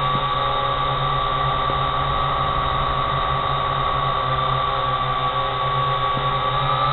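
Drone motors and propellers humming steadily with a high whine, its pitch shifting slightly near the end. A few faint clicks are heard over it.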